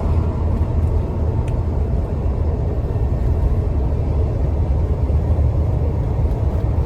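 Large dump truck running, a steady low engine and road rumble.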